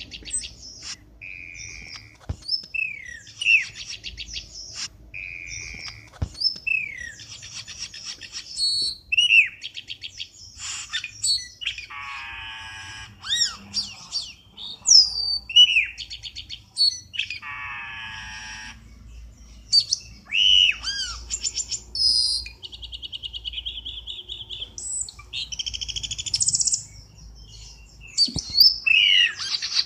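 Cucak keling bird-lure recording: a varied run of sharp falling whistles, short steady whistled notes and fast trills, with harsh buzzy chatter about twelve and eighteen seconds in.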